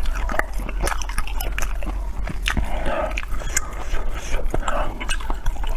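A person chewing and biting food, with many small irregular wet clicks and smacks of the mouth.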